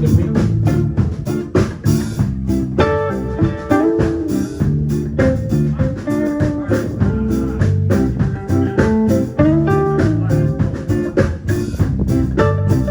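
Band playing an instrumental passage: guitar over bass and a steady drum beat, with a blues feel.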